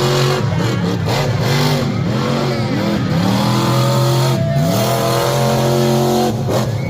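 A large vehicle engine revving up and down in quick blips, then climbing and holding a steady high rev for about three seconds before dropping off near the end.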